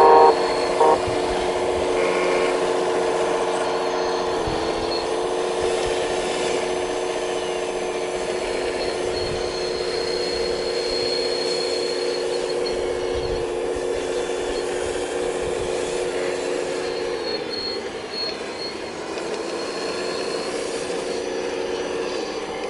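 Diesel engine of a heavy earthmoving machine running steadily under work, its pitch sagging briefly twice as it takes load, with a high hydraulic-type whine on and off and a few low knocks.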